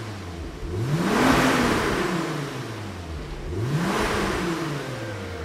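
Volkswagen Corrado's turbocharged 3.0-litre VR6 engine, heard through its handmade exhaust, revved twice while the car stands still, each time climbing and then falling back.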